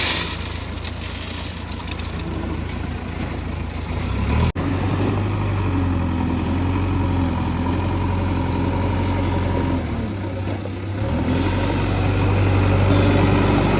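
Diesel engine of a backhoe loader or tractor running, its note wavering up and down and growing louder near the end, with an abrupt cut about four and a half seconds in.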